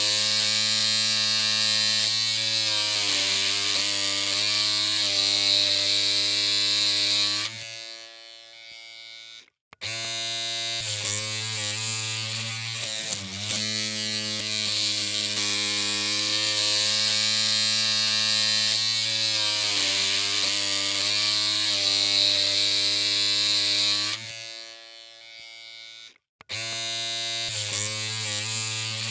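Electric hair clippers running with a steady buzzing hum. The hum drops away and cuts out about eight seconds in and again about 24 seconds in, starting back up abruptly a couple of seconds later each time.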